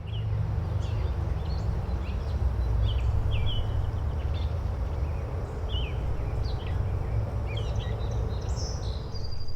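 Nature-sound ambience: a steady low rushing background with small birds chirping briefly every second or so.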